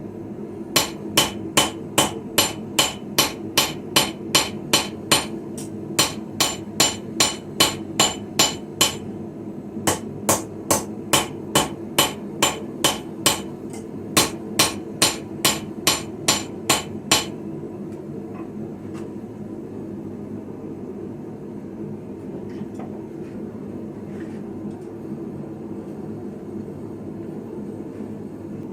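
Hand hammer ringing on an anvil as a sickle blade is forged, about three blows a second, with a short pause a little over a third of the way in. The hammering stops about two-thirds of the way through, leaving a steady low hum.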